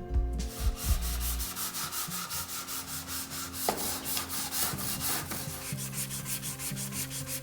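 Hand sanding of cured epoxy fairing compound on a rudder blade with a sanding block, in quick, even back-and-forth strokes, flattening the surface before fiberglass is laid on.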